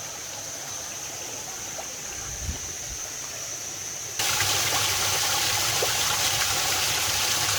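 Waterfall water rushing steadily over rocks, suddenly much louder about four seconds in.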